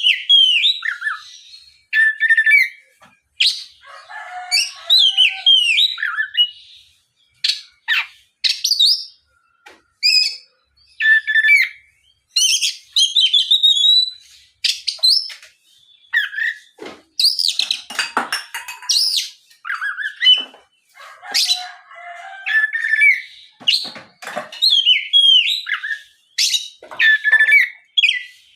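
Oriental magpie-robin (kacer) singing in full voice: a long run of short, varied whistled and chirping phrases with brief pauses between them. It is the loud, continuous 'ngeplong' style of song that keepers play to provoke other magpie-robins into answering.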